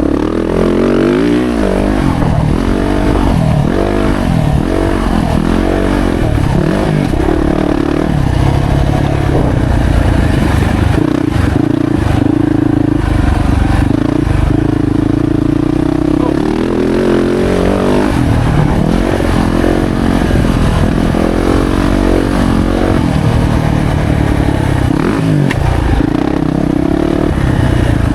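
Yamaha YZ450F four-stroke single-cylinder motocross engine under way, revving up and down repeatedly through the first several seconds. It holds a steadier throttle through the middle, then revs up and down again later and near the end.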